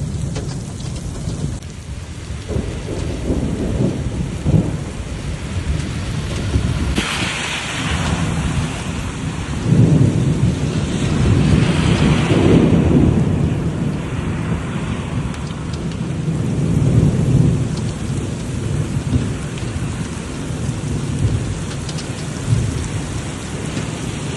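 Steady heavy rain in a thunderstorm, with long low rolls of thunder swelling and fading several times, the loudest about ten to thirteen seconds in.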